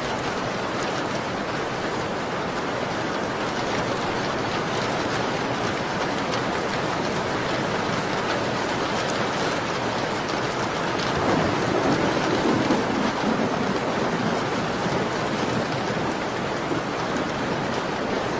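Steady rain pattering against a window, with faint crackles from a fireplace. About eleven seconds in, a low rumble swells for two seconds or so and then fades back into the rain.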